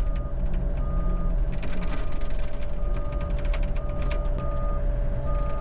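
Tracked heavy equipment moving under diesel power. A travel alarm beeps about once a second over the steady engine, with clanks and rattles from the tracks.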